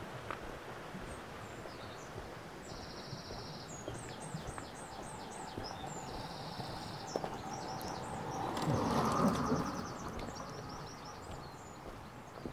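Several songbirds singing: repeated short, high whistled notes and rapid trills, over a steady outdoor hiss. A louder rushing swell rises and fades about nine seconds in.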